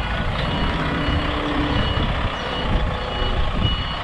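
Container truck's reversing alarm beeping repeatedly over the steady low rumble of its diesel engine as it backs up.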